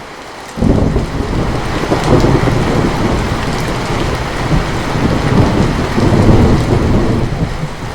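Heavy rain falling steadily, with a loud rumble of thunder breaking in suddenly about half a second in and rolling on, easing briefly near the end.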